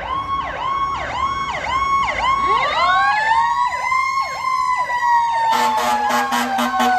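Fire apparatus warning devices: an electronic siren yelping with rapid repeating sweeps. A mechanical fire-engine siren winds up about two seconds in, then slowly coasts down in pitch. From about five and a half seconds a low, pulsing air-horn blare is added.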